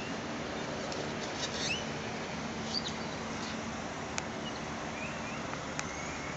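Small birds chirping now and then over a steady outdoor hiss: short high chirps and little rising and falling calls scattered through, with a couple of brief ticks.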